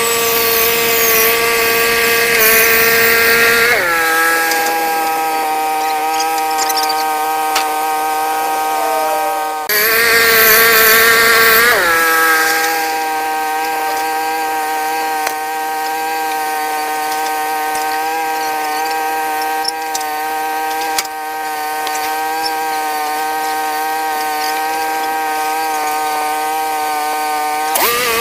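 Wood-Mizer portable band sawmill running under power, a steady engine drone with sawing noise. The pitch shifts about four seconds in, then rises and grows louder for a couple of seconds around the middle before settling back.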